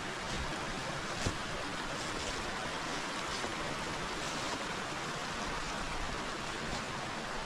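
River water flowing, a steady rush. Light footsteps crunch about once a second over it, and one sharper knock comes just over a second in.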